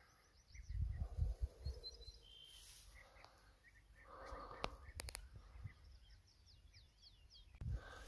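Wild birds singing: series of short, quickly falling high chirps, near the start and again near the end. Low rumbling about a second in and a few sharp clicks near the middle.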